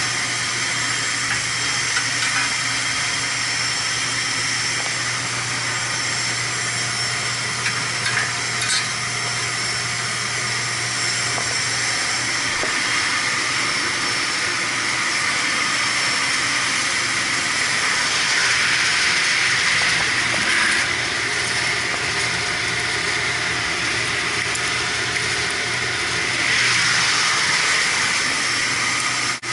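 Steady hissing and humming machinery noise, with a few light metallic clinks of hand tools on boiler parts.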